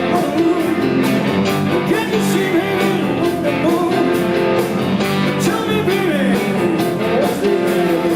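Live blues-rock band playing: a guitar line with bending, wavering notes over bass and drums.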